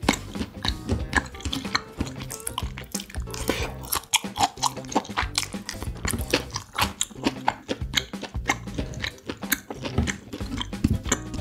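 Close-miked chewing and wet mouth sounds of someone eating chunks of chop steak, with many short clicks, over background music.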